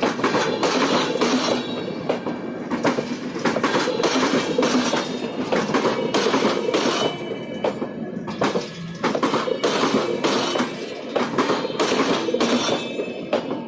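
Wheels of a passing LHB passenger coach rake clattering over a railway diamond crossing: a rapid, uneven run of sharp clacks with a steady ringing tone beneath, which the uploader calls a dangerous sound.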